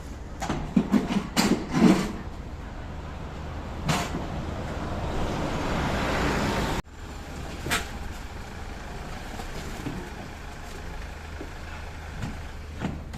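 Lorry engine idling with a steady low hum. Several loud knocks and bangs come in the first two seconds, then a hiss swells for a couple of seconds and cuts off suddenly, with lighter knocks after it.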